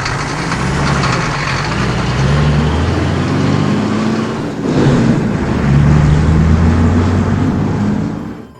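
A heavy truck engine running with a loud rushing noise over it. Its low pitch steps up and down a few times, and it stops suddenly near the end.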